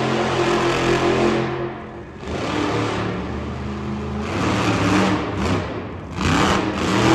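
Monster truck engine running hard, easing off about two seconds in, then revving up again in repeated bursts that rise and fall in pitch, the loudest near the end.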